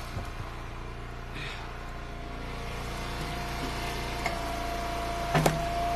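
Log splitter's engine running steadily, with a sharp knock about five and a half seconds in.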